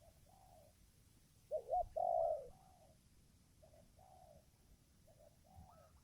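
Spotted dove (tekukur) cooing: a loud two-part coo about a second and a half in, with fainter coo phrases around it.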